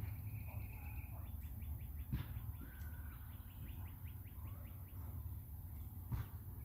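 Bird calling: a thin high whistle, then a rapid trill of about six chirps a second lasting some three seconds. Under it runs a low steady rumble, with a couple of sharp clicks.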